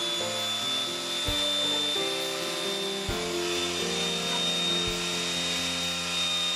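A vacuum cleaner runs steadily with a high whine. Background music with a slow beat plays alongside it.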